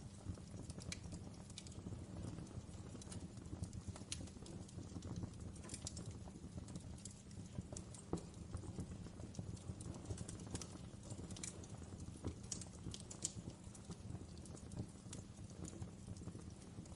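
Fire in a fireplace crackling: irregular sharp pops and snaps scattered over a low, steady rumble of the flames.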